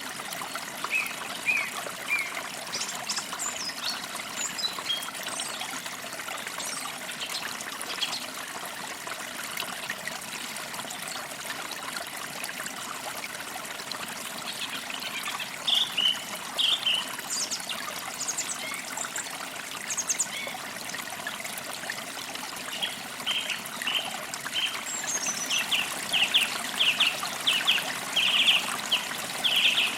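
Forest creek water trickling and babbling steadily, with birds chirping over it: a few short chirps early, a cluster midway, and a quick run of repeated chirps near the end.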